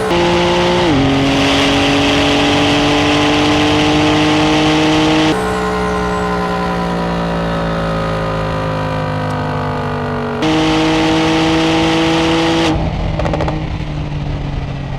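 High-performance car engine under hard acceleration, its note climbing slowly through a gear, with an upshift about a second in. Abrupt cuts around five and ten seconds in switch to other engine takes, one with the pitch steadily falling as the car slows.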